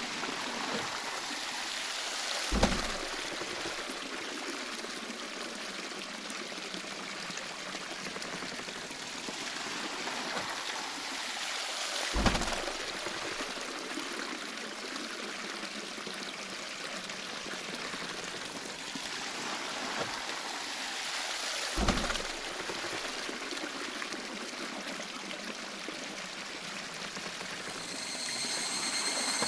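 Water pouring and splashing steadily at a wooden waterwheel, with a low thump about every ten seconds, three times in all.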